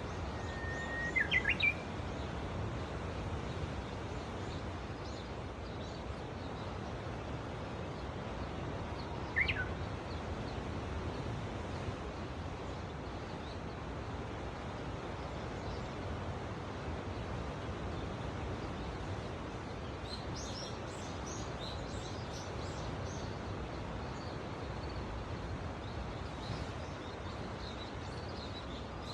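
Wild birds calling over a steady wash of sea surf and wind: a sharp call with falling notes about a second in, another falling call near ten seconds, and a few faint high chirps later on.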